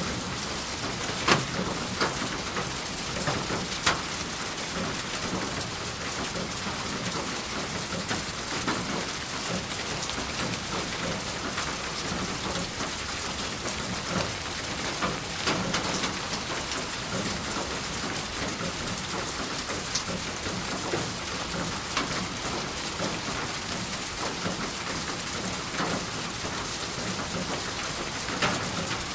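Steady rain falling, an even hiss with scattered sharper drop impacts on a nearby surface.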